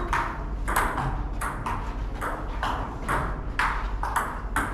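Table tennis rally: the ball clicks off bats and table in quick, even succession, about two to three hits a second.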